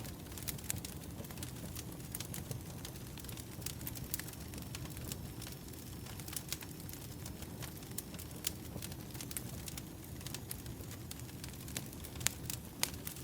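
Wood fire burning: a steady low rumble of flames with frequent sharp crackles and pops of the firewood, a couple of louder pops near the end.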